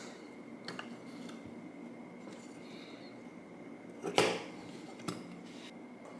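A few light clicks and clinks of small hard objects being handled, with one sharp, louder knock about four seconds in, over a faint steady high-pitched hum.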